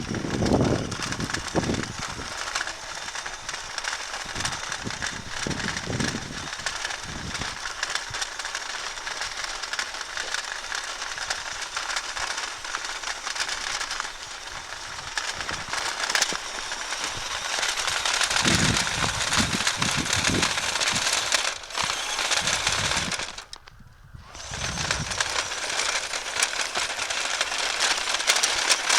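Dense, steady crackling and crunching of an RC truck's tyres rolling through snow, with a few low rumbles, stopping briefly about three-quarters of the way through.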